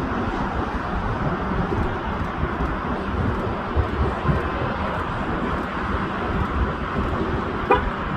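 Steady jet-engine roar of a Boeing 777 on its landing approach, with wind buffeting the microphone. A brief sharp chirp comes near the end.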